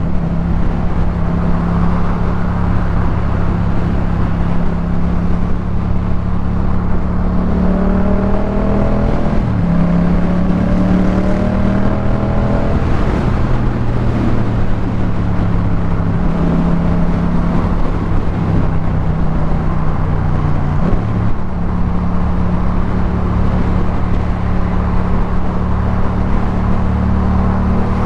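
2018 Yamaha MT-07's 689 cc parallel-twin engine running through a Jeskap K4 full aftermarket exhaust while riding at steady revs, the pitch stepping up and down a few times with throttle changes.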